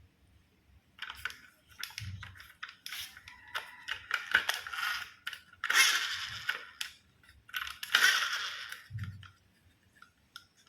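Plastic packaging crinkling and rustling in several bursts, with scattered clicks and a couple of soft knocks, as a toy train is handled and taken out of its box.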